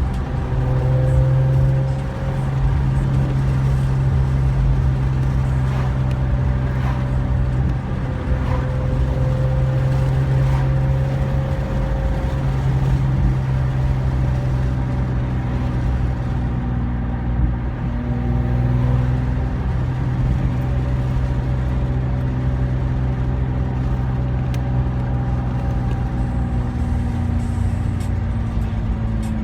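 Infiniti G35's V6 running through a Motordyne exhaust, a steady low drone whose engine speed changes only a little.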